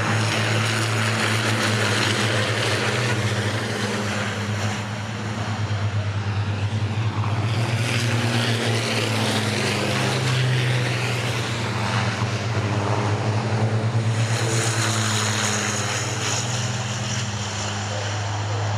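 Racing trucks' diesel engines running at speed on the circuit: a steady low engine drone that swells several times as trucks pass.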